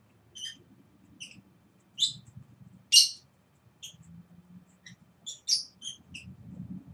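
A small bird chirping: about a dozen short, high chirps at irregular intervals, the loudest about two and three seconds in.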